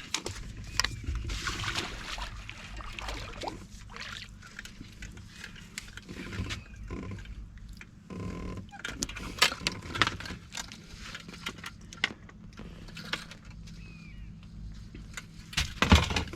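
Boat motor running steadily under scattered clicks and knocks from a fishing reel being cranked against a hard-running fish.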